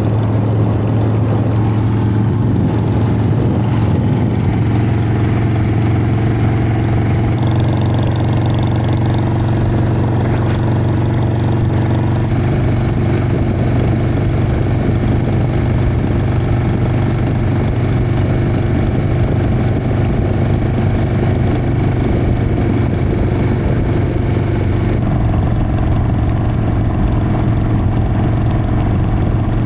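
Harley-Davidson Sportster's V-twin engine running steadily, with a slight change in its note about twelve seconds in and again near the end.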